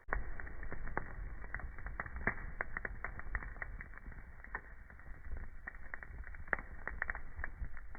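Wood fire crackling: irregular sharp pops and snaps of burning wood, several a second, over a steady low rumble of the flames.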